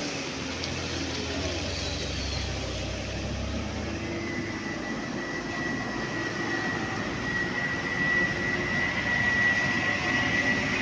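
Heavy truck engine running, with a low rumble at first and a thin steady high whine joining about four seconds in.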